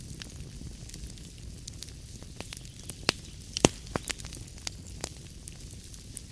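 Wood fire burning in a fireplace: a steady low rumble and hiss with irregular sharp crackles and pops, the loudest pops about three and a half seconds in.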